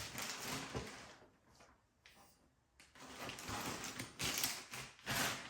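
Packaging and parts being handled: rustling and sliding for about a second, a short quiet pause, then more rustling with a few light knocks.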